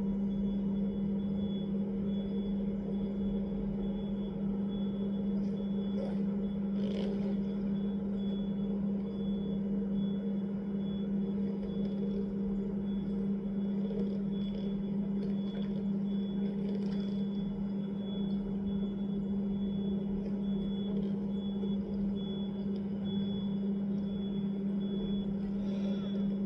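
A steady low hum, one unchanging tone, with a few faint brief knocks or splashes.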